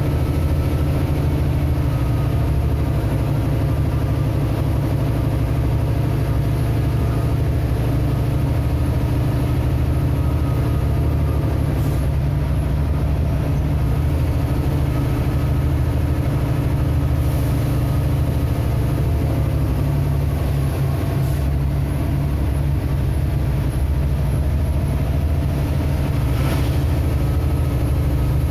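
A vehicle engine running steadily at an even, low speed, with a few faint brief clicks along the way.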